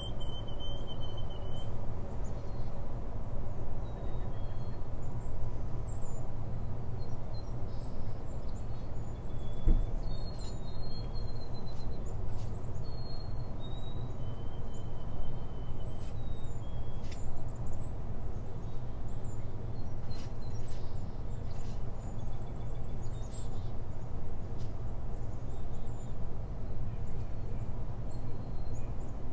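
Birds chirping now and then, short high calls, over a steady low rumble of background noise, with a few faint clicks.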